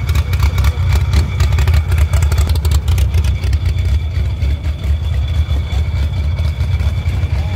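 Modified Volkswagen Gol drag car's engine running at a loud, choppy idle as the car rolls slowly forward toward the start line.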